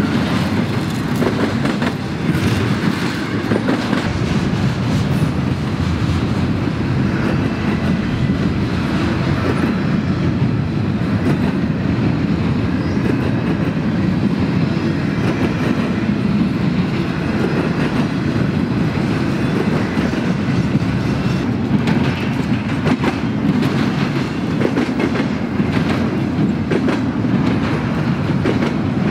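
Intermodal freight train's cars rolling past: a steady, loud rumble of steel wheels on rail with scattered clicks.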